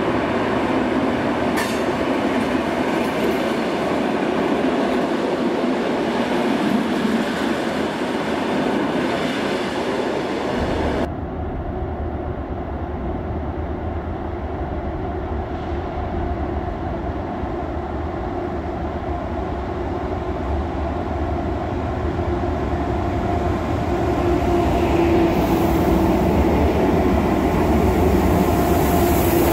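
Electric multiple-unit train moving slowly through an underground station, its wheels running over the rails and points. About eleven seconds in, the sound changes to a quieter rumble as a second electric train pulls in along the platform, with a falling whine in the last few seconds as it slows.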